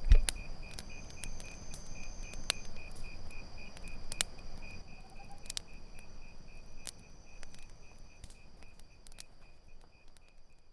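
Campfire crackling in scattered sharp pops over the steady chirping of crickets, with a low thump just after the start. The sound fades out near the end.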